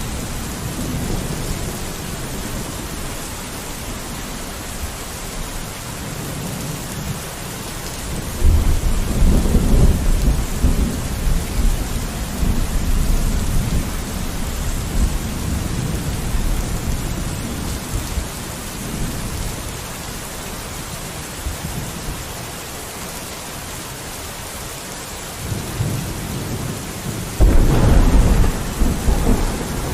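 Steady rain falling on a window, with two deep rolls of thunder. One starts suddenly about a third of the way in and rumbles for several seconds; the other breaks in near the end.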